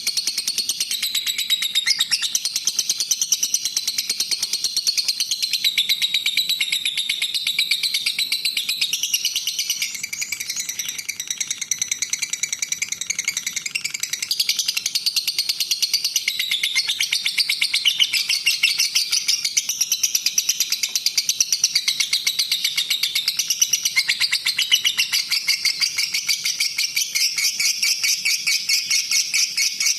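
Songbird singing a continuous, very rapid high-pitched chattering song with a dense run of notes, a little softer for a few seconds around the middle.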